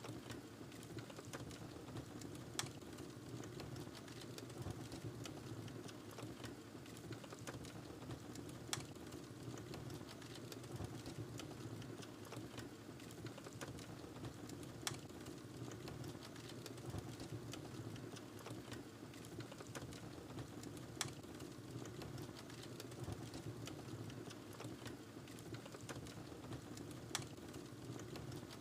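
Wood fire in a fireplace crackling: a steady low rumble of flame with constant small crackles, and a sharper pop about every six seconds.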